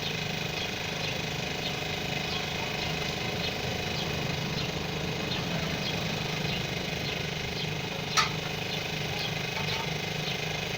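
A steady engine running in the background, with scattered light ticks and one sharp click about eight seconds in.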